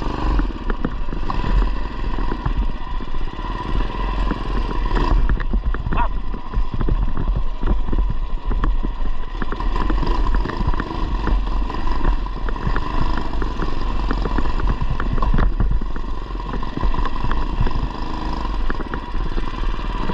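Modified Coleman BT200x mini bike's swapped-in 212cc single-cylinder four-stroke engine running steadily while the bike is ridden off-road, with many short clicks and knocks throughout.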